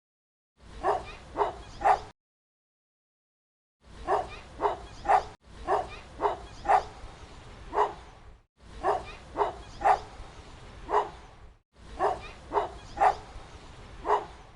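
Big dog barking in runs of three or four sharp barks about half a second apart, repeated five times with short gaps of dead silence between runs.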